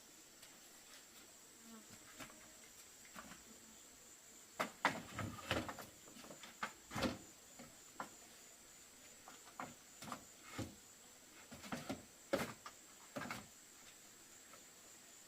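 Insects making a steady high buzz, with a run of irregular knocks and clicks from about a third of the way in until near the end.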